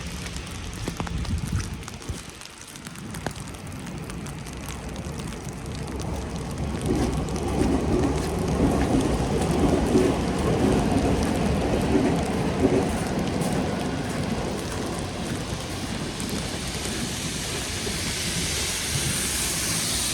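Steady hiss and patter of wet snow falling. A low rumble swells in about six seconds in and fades again after about thirteen seconds.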